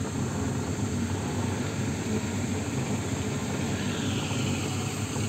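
A vehicle's engine running steadily, a constant low rumble heard from inside the vehicle by an open window.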